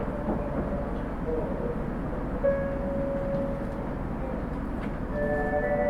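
Onboard running sound of an Osaka Metro 30000 series subway car: a steady rumble of wheels on rail. Over it sit steady whining tones from the Hitachi SiC-VVVF inverter and traction motors, one held through the middle and several stacking up and getting louder about five seconds in.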